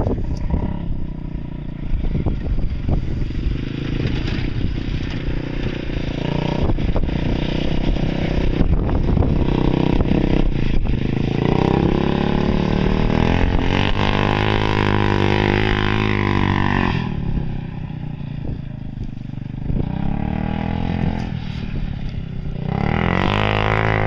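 Engine of a Yamaha G2 golf cart with a swapped-in Polaris engine, running while the cart is driven. The engine pitch climbs steadily as it speeds up past the middle, drops off suddenly, then climbs again near the end.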